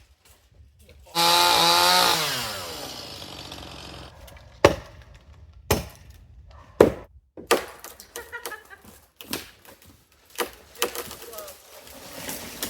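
Chainsaw revved at full throttle for about a second, then released so its pitch falls away as it slows. After it comes a string of sharp, separate wooden knocks and cracks.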